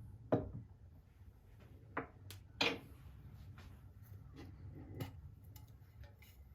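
Scattered light clicks and knocks of small objects being handled, four of them louder than the rest, over a low steady hum.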